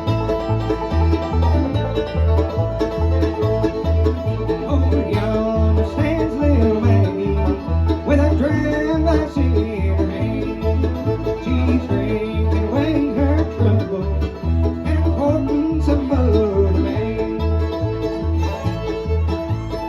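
Acoustic bluegrass string band playing a tune: banjo and guitar over a steady, even bass beat, with a sliding bowed fiddle line on top.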